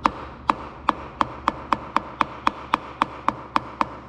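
Light, even taps of a wooden tool handle on the top of a piston, driving it and its rings through a ring compressor into the cylinder of a Kohler K241 engine. There are about fifteen taps, some four a second. The piston is not yet going in: the rings are still held up at the compressor.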